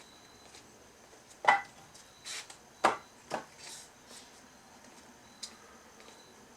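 Pieces of split firewood knocking against each other: three sharp wooden knocks, the first the loudest, with brief scraping between them.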